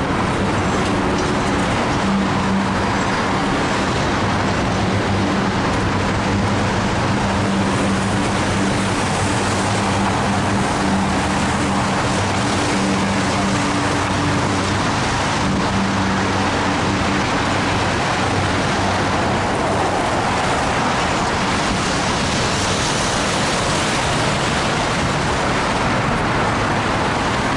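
Steady rolling noise of loaded oil tank cars passing on the rails, mixed with car tyres hissing on a wet road. A steady low hum runs under it and stops about two-thirds of the way through.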